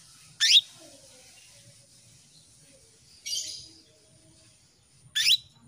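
Female canary calling: two loud, short, sharply rising call notes, one about half a second in and one near the end, with a softer, rougher chirp in between. These are the female's calls used to draw a male canary into song.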